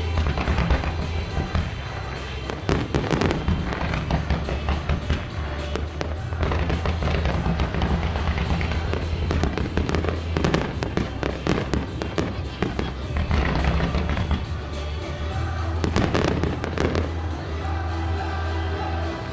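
Aerial firework shells bursting one after another, over a steady music soundtrack, with dense clusters of bangs about three seconds in, around ten seconds and around sixteen seconds.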